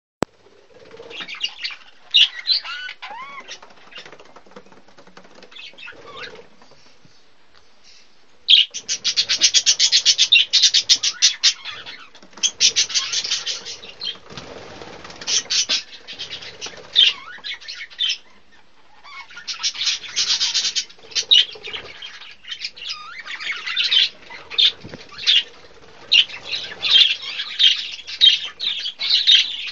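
Budgerigar chattering and warbling in bursts of rapid, high notes separated by short pauses, with a few gliding whistles in the first few seconds.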